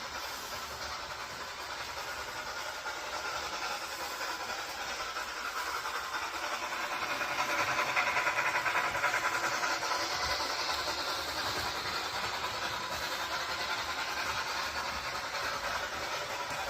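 A train running, heard as a steady rushing hiss that grows louder to a peak about halfway through and then eases off a little.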